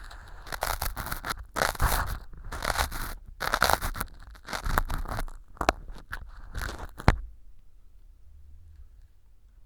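Ear pick scraping and crunching through small pieces of dry floral foam set as fake earwax in a silicone ear model, picked up by a binaural microphone: a run of short scrapes, ending with a sharp click about seven seconds in, after which the scraping stops.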